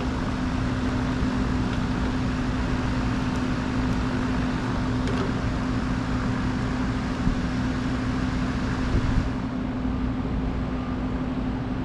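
A vehicle engine running steadily with a constant hum; a rushing noise over it eases off about nine seconds in.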